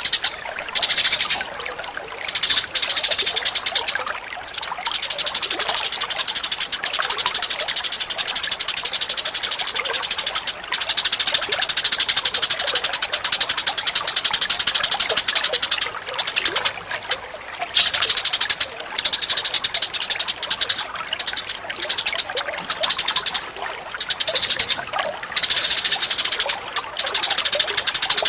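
Recorded bird calls for masteran: long runs of very rapid, high-pitched trilling chatter, broken every few seconds by short pauses.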